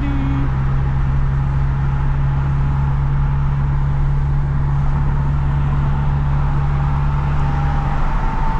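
Lexus IS350's V6 exhaust, with a midpipe that has no secondary cats and a muffler-deleted axle-back, running steadily at a constant cruise with an even low drone.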